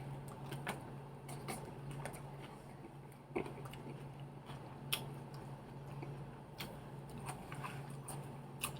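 A person chewing and biting food close to the microphone, with scattered small wet clicks and snaps, over a steady low hum.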